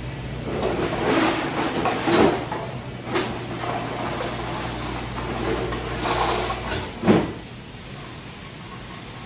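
Irregular clattering and knocking of dishes and dish racks being handled, over a steady low machine hum. The hum stops after a sharp knock about seven seconds in.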